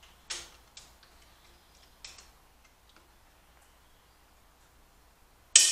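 A few light metallic clicks of a torque wrench and socket being set on the cylinder head bolts of a Ford small-block V8, then one sharp, loud click near the end as the wrench reaches 75 ft-lb.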